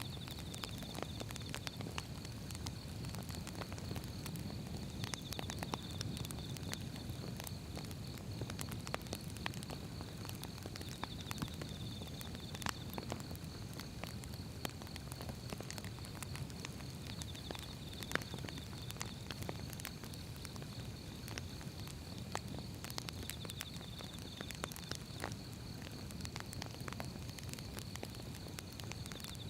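Wood fire burning: irregular crackles and pops of firewood over a low, steady rumble of the flames.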